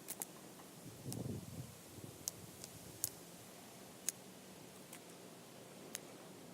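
Wood campfire crackling quietly, with a few scattered sharp pops and a brief low rustle about a second in.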